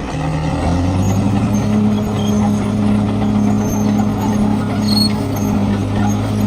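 Bulldozer's diesel engine running steadily, its pitch stepping up about half a second in and then holding.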